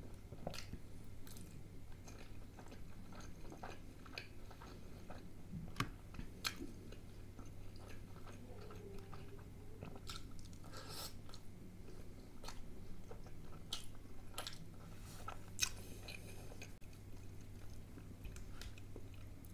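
Close-miked chewing of palak kofta, spinach dumplings in curry, with wet mouth smacks and clicks scattered throughout. A low steady hum lies underneath.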